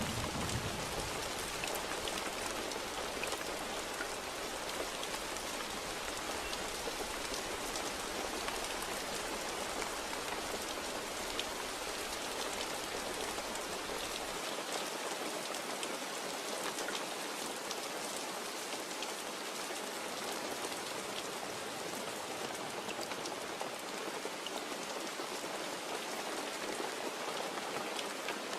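Steady heavy rain: an even hiss with scattered ticks of single drops. The low rumble of a thunderclap fades out about a second in.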